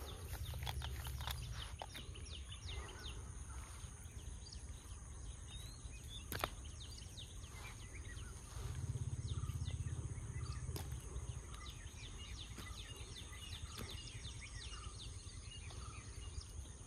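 Birds chirping with many short high calls over a steady high hum, outdoor ambience in a grassy field. A sharp click about six seconds in, and two short spells of low rumble, near the start and around nine seconds.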